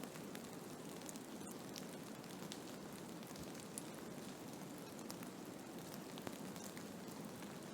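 Blizzard ambience: a steady hiss of wind-driven snow with scattered light ticks.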